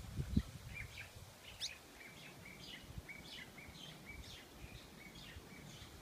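A bird chirping a long run of short, high notes, about three a second, with a low thump in the first half second.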